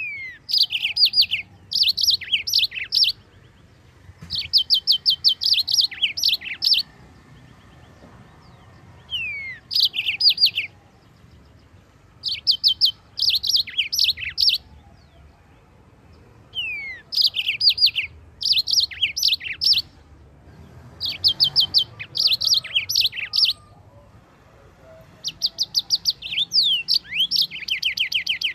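Yellow-fronted canary (Mozambique canary) singing. It gives repeated phrases of a second or two made of rapid, high trilled notes, with short pauses between them. Some phrases open with a single falling whistled note.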